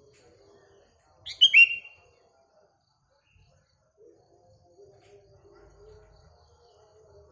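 Sooty-headed bulbul giving one short, loud call of a few quick notes sliding downward, about a second in. Faint lower-pitched warbling runs in the background.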